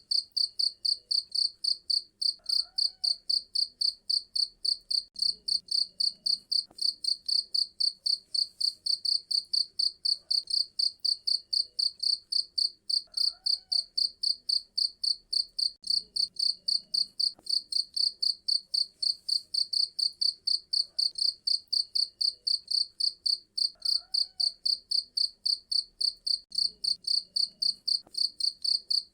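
Cricket chirping steadily in high-pitched, evenly spaced pulses, about three to four chirps a second.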